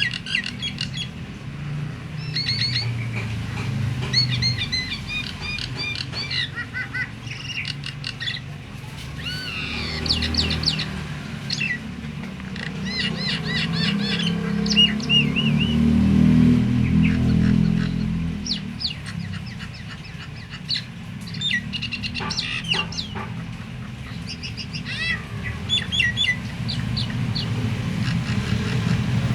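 A starling (jalak) singing a long, varied stream of quick chirps and whistles, with short pauses between phrases. A low rumble runs underneath, loudest about halfway through.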